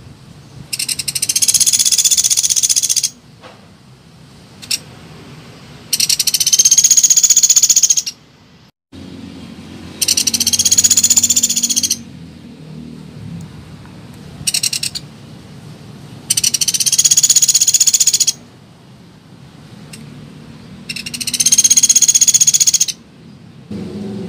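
Woodpecker (pelatuk beras) giving its rapid, high-pitched rattling call five times, each rattle lasting about two seconds, with a couple of short rattles in between.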